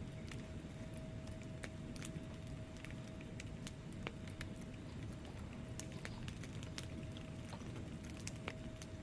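Wood fire burning in a fireplace: a steady low rumble of flame with frequent irregular crackles and snaps from the logs. A faint steady tone sits underneath.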